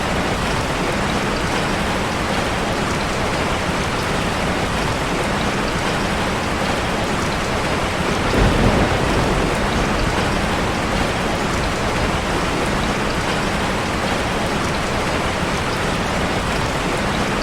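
Heavy rain drumming on a car, a steady even hiss of drops. A brief low rumble swells about halfway through.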